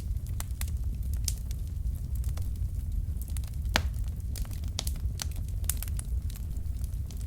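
Wood fire in a fireplace, logs burning with irregular sharp crackles and pops over a low steady rumble of the flames, one pop louder than the rest a little before four seconds in.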